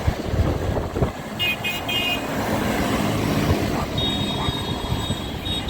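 Tractor engines running as the tractors drive past, with three short horn toots about a second and a half in.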